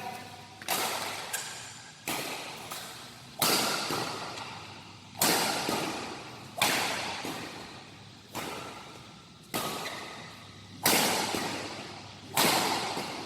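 Badminton rackets striking a shuttlecock in a rally, about ten sharp cracks, one every one to two seconds, each followed by the echo of a large hall.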